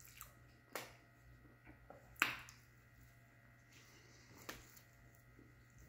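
Chewing a chicken sandwich with a few short, wet mouth clicks and smacks, the loudest about two seconds in, over a low steady hum.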